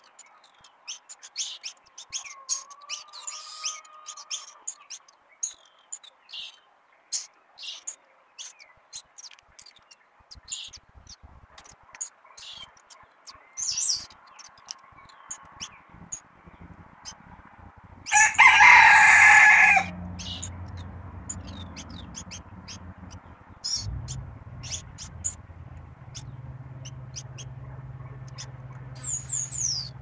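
Short, high bird chirps scattered throughout. A single loud call lasting about two seconds comes just past the middle.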